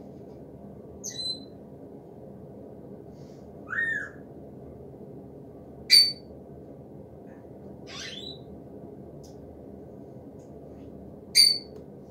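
Short, sharp bird calls, five in all a couple of seconds apart, the loudest about six and eleven seconds in, over a steady low rumble.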